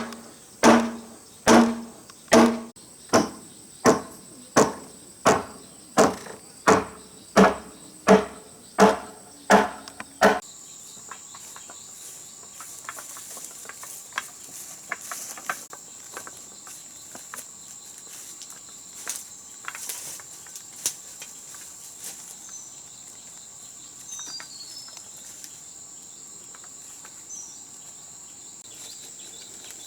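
Steady, evenly paced strikes of a tool on wood, about three every two seconds, stopping about ten seconds in. After that, crickets keep up a steady high chirring, with scattered light taps and a few short bird chirps.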